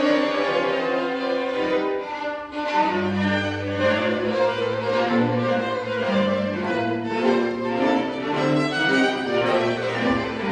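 Chamber string orchestra playing sustained bowed notes. Low strings come in with long held notes about three seconds in, under the violins.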